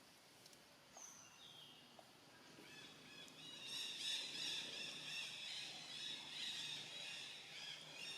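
High-pitched animal chirps: a couple of single short calls, then from about three seconds in many overlapping chirps.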